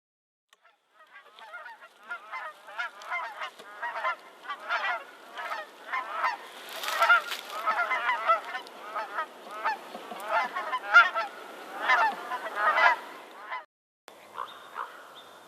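A flock of geese honking, many overlapping calls one after another. The calls start about a second in and stop abruptly near the end.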